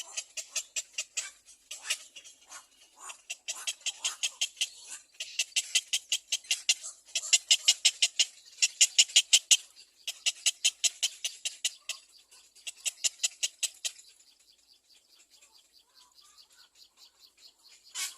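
Little black cormorant chick calling: rapid runs of short, high, rasping calls at about five a second, in bouts of a second or two, until about fourteen seconds in.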